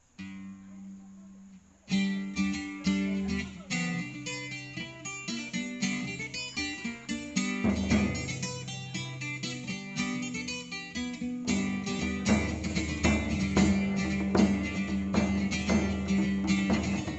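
Folk band's instrumental introduction led by acoustic guitar: a soft held note opens, then about two seconds in, quick picked notes start over a steady low drone.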